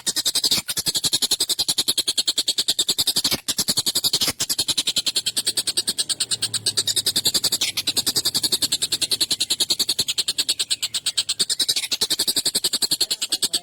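Tengkek buto, a large kingfisher, calling in a fast, harsh, unbroken rattle of about ten notes a second, broken by brief pauses.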